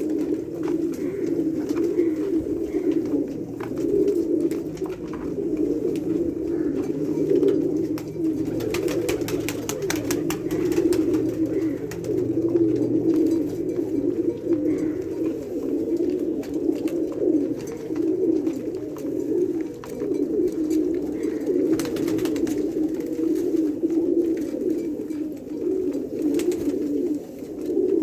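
Domestic pigeons, many at once, cooing continuously in an overlapping chorus of low coos, with a few faint clicks here and there.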